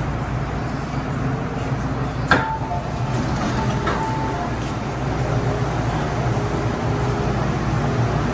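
MTR M-Train running: a steady rumble of wheels and motors, a single sharp clunk about two seconds in, and brief squeals just after it and again about four seconds in.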